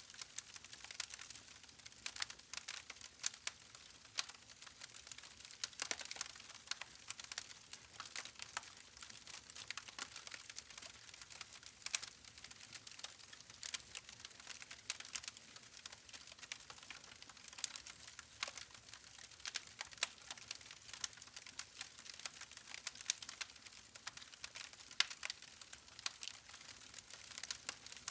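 Wood campfire crackling: irregular sharp pops and snaps of burning logs over a soft steady hiss.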